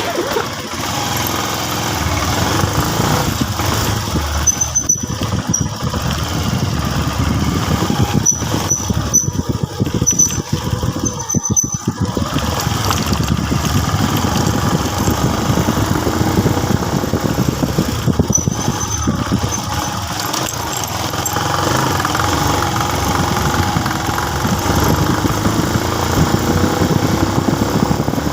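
Motorcycle engine running under way, with road and wind noise. The engine sound drops off briefly several times, around five seconds in, between about nine and twelve seconds, and near eighteen seconds, with short high squeaks at those points.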